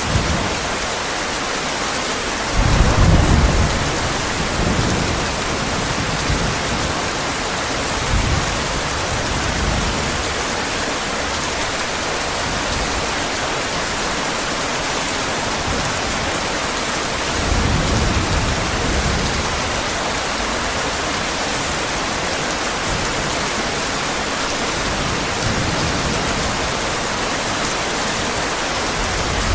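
Heavy rain falling steadily, with several low rolls of thunder; the loudest comes about three seconds in and another strong one a little past the halfway mark.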